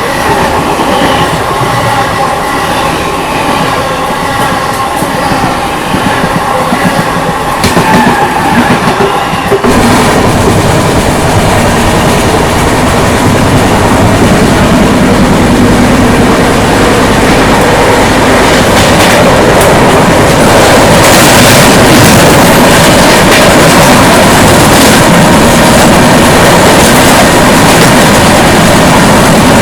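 Express passenger train running along the track, with wheels clattering over rail joints. For about the first ten seconds a steady whine sits over the running noise. It then changes abruptly to a louder, even rushing rumble that holds steady.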